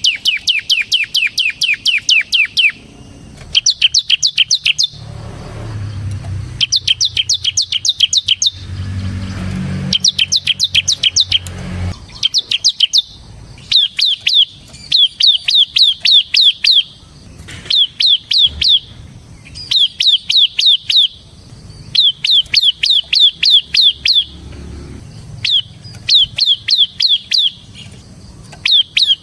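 Bar-winged prinia (ciblek, semi variety) singing its fast drilling song: repeated bursts of one to two seconds, each a rapid run of sharp downward-sweeping notes, about eight a second, with short pauses between bursts. A faint low rumble sits underneath at times.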